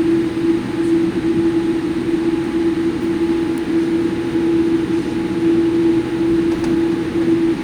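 Jet airliner engines heard from inside the passenger cabin: a steady, even drone with a strong constant hum.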